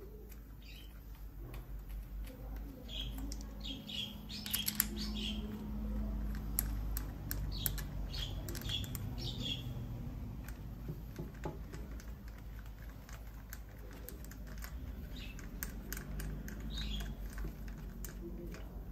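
Small birds chirping in short repeated clusters, with scattered light clicks and taps over a low steady hum.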